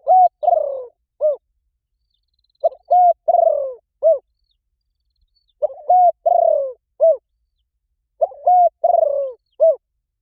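Spotted dove cooing its calling song (gáy gọi): four repeated phrases about every two and a half seconds. Each is a quick run of about four coos, with one longer note in the middle that falls in pitch.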